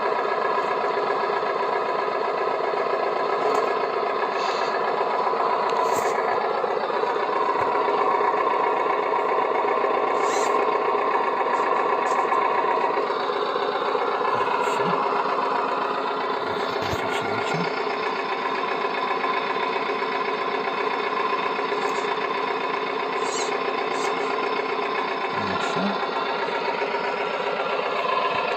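Small electric gear motor of a converted toy crane truck running steadily during a lifting test, a continuous mechanical whine and hum that shifts slightly in pitch partway through.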